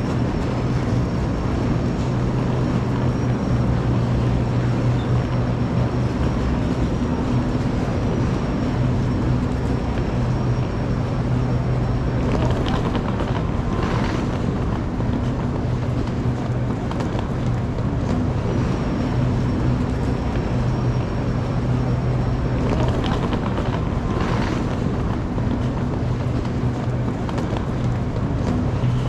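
Electric suburban train running at speed, heard from inside the carriage: a steady rumble of wheels on rail with a low hum, a thin high whine that comes and goes, and a few brief rattles about halfway through and again a few seconds later.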